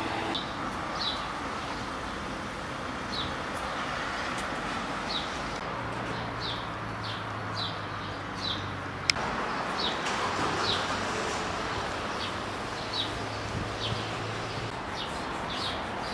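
Small birds chirping over steady outdoor background noise: short downward chirps, about one or two a second. A low steady hum runs through the middle, and there is a single sharp click about nine seconds in.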